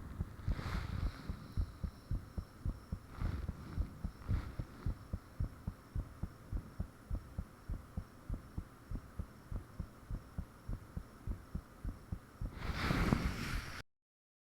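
A person's heartbeat heard up close, as a fast, regular run of low thumps, which the owner describes as really loud and thumpy. A few brief scratchy noises come through it. Near the end a louder rush of noise swells, then the sound cuts off abruptly.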